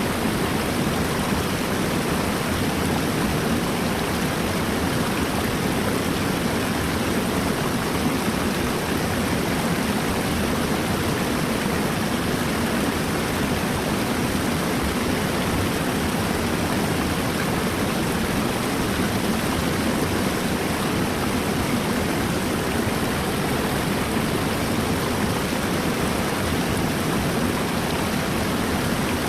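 Flowing water rushing steadily and evenly, a continuous full, deep noise with no breaks.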